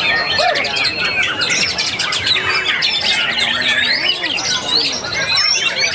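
Several white-rumped shamas singing at once: a dense, unbroken tangle of overlapping whistles, chatters and sharp squawks.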